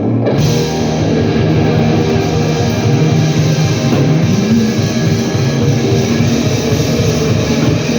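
Blues-rock band playing live: loud guitar-led music that runs on without vocals.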